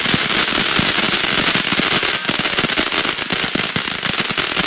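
Consumer firework going off: dense, rapid crackling pops over a steady hiss, without a break.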